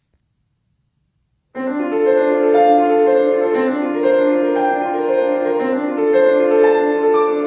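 Silence, then about one and a half seconds in a piano begins playing, the opening of a piece, with sustained notes in the middle register.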